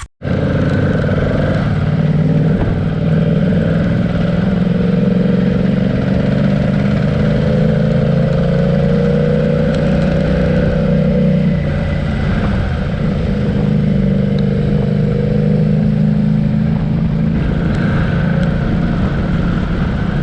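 Motorcycle engine running at a steady, nearly constant pitch, with only slight rises and dips in revs. It starts abruptly and cuts off suddenly.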